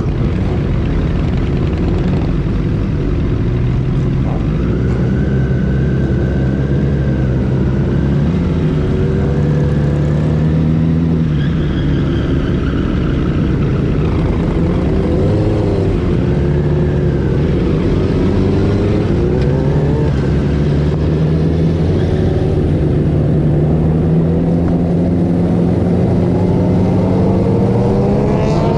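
Motorcycle engines running under way, their pitch rising and falling with the throttle and gear changes over a constant low rumble, with a rise in pitch near the end as the engine revs up.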